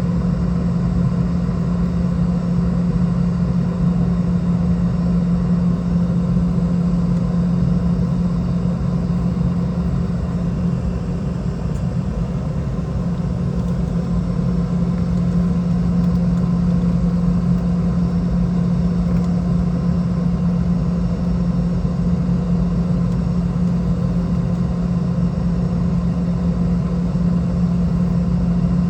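Steady cabin drone of a Boeing 717-200 in flight: the hum of its rear-mounted Rolls-Royce BR715 turbofans over an even rush of air, with no change in pitch or level.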